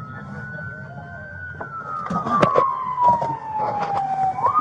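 An emergency vehicle's siren wailing: one tone holds high, falls slowly in pitch for a few seconds, then climbs quickly again near the end. Several sharp clicks and knocks sound partway through.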